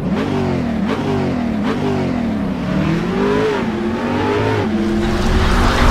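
Car engine revving, its pitch climbing and dropping several times before settling steadier near the end.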